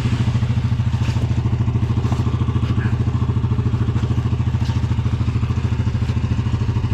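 ATV engine idling steadily with an even, rapid exhaust pulse, with a few light knocks on top.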